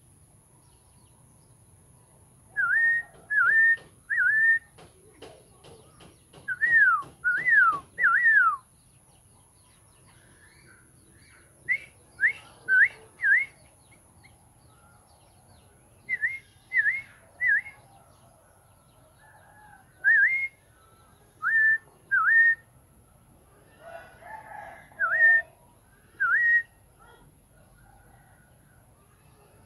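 A hand-raised songbird, the kind called a jumbul bird, whistling loud, clear notes in short groups of two or three, each note a quick dip and rise in pitch, with pauses of a few seconds between groups. A rapid run of clicks comes about five to eight seconds in.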